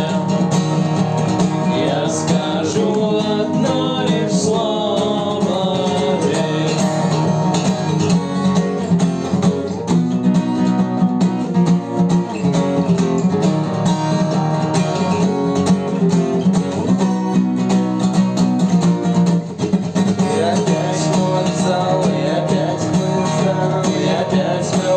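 Guitar playing an instrumental passage of a song, with a steady low chord underneath and a picked melody moving above it.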